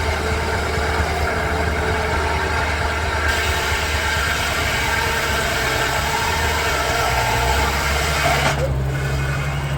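Steady machinery running: the Baker steam traction engine and Frick sawmill, with a low drone throughout and a steadier low tone joining near the end.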